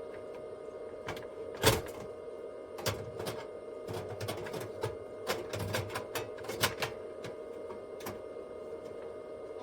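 Irregular clicks and knocks, the loudest about two seconds in and a quicker run of them in the middle, over a steady hum.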